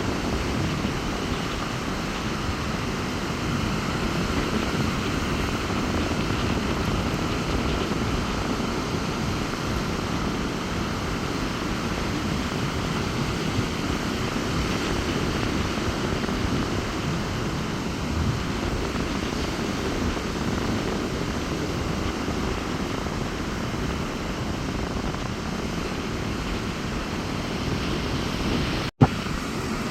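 Sea waves surging onto the beach in strong wind, a steady rushing rumble of rough surf. The sound cuts out for an instant near the end.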